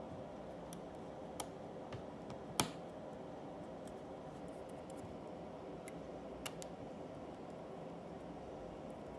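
Scattered light clicks of 3D-printed plastic parts being handled, the sharpest about two and a half seconds in, over a steady low hum.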